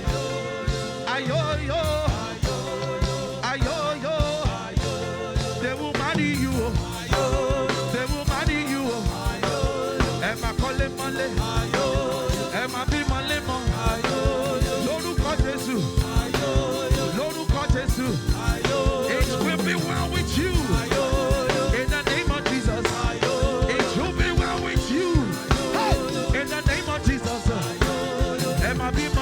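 Live Nigerian gospel praise band playing an upbeat groove with a steady drum-kit beat, with a voice singing or calling over it at times.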